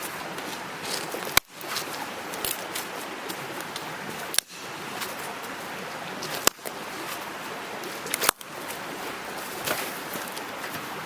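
A small mountain stream babbling steadily, broken by four sharp clicks a couple of seconds apart, each followed by a brief dip in the sound.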